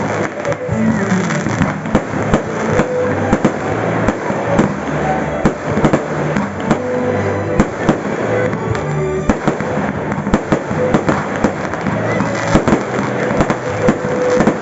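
Fireworks going off in a rapid, irregular series of sharp bangs and pops, several a second, with music playing underneath.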